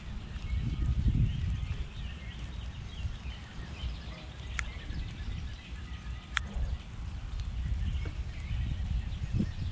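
Outdoor background: a low rumble that swells and fades, with faint scattered small-bird chirps and two sharp clicks about halfway through.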